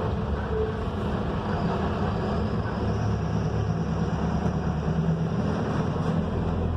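Mercedes-Benz OF-1721 bus engine running steadily with road noise. It is a low, continuous drone whose pitch shifts a little partway through.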